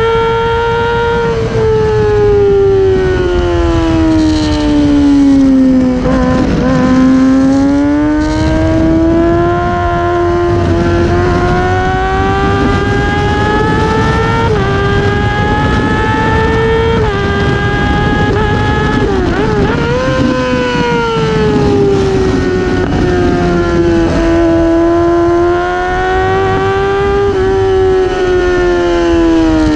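Racing motorcycle engine heard from onboard at high revs under hard riding: the note climbs through the gears with several quick drops at upshifts in the middle, and falls away as the bike slows into corners near the start and again near the end. Wind rush runs underneath.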